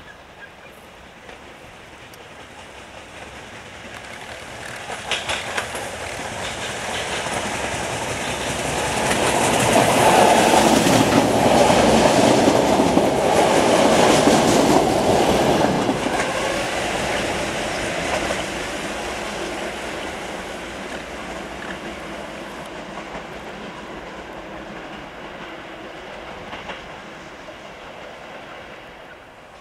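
A two-car regional passenger train passing close by: its running noise and wheel clatter over the rail joints build up, are loudest for several seconds as it goes by, then fade slowly as it moves away.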